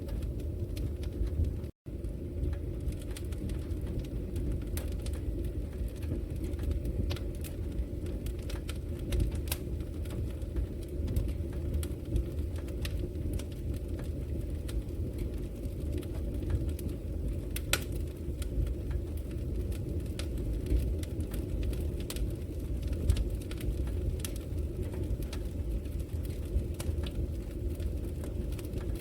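Wood fire burning in a fireplace: a steady low rumble of flames with scattered sharp crackles and pops from the logs. The sound cuts out for an instant about two seconds in.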